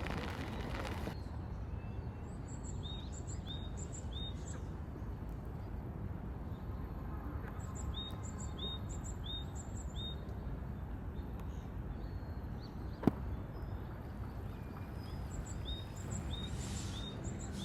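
A small bird calling in short runs of three or four quick, high chirps, repeated several times over a steady low outdoor background noise, with one sharp click near the end.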